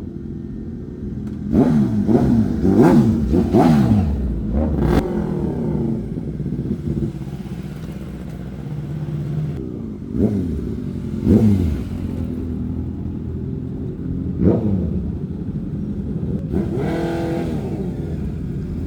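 Motorcycle engine idling, with its throttle blipped in short revs that rise and fall back to idle: a quick cluster of about four in the first few seconds, then single revs spaced out, and a longer one near the end.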